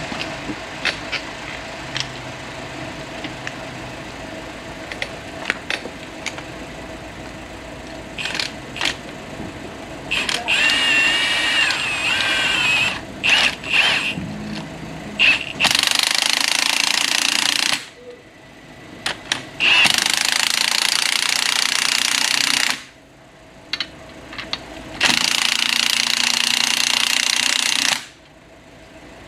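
Impact wrench hammering in four long bursts with short pauses, driving down the threaded rods of a coil-spring compressor fitted on a front strut to compress the spring. The first part before the bursts holds only scattered clicks and handling knocks.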